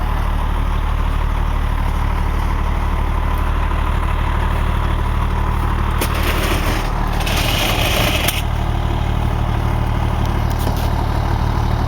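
Fire engine's engine running steadily with a low, even hum. About six seconds in, a loud hiss lasts roughly two seconds and then cuts off.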